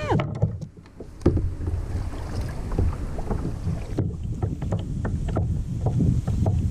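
Wind rumbling on the microphone while water laps against a fishing kayak, with scattered small clicks and knocks from the hull and gear.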